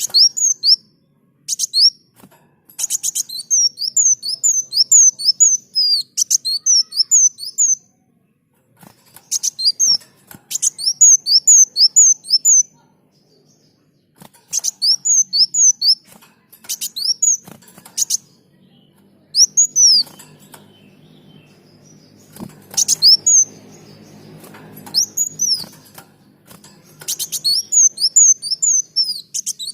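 A sunbird (kolibri daun) singing: phrases of rapid, high, sharp chirps, about four a second, each phrase a few seconds long, with short pauses between them.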